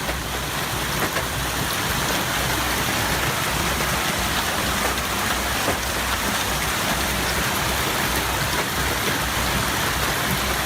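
Heavy rain pouring steadily, a dense hiss of drops with a low rumble underneath.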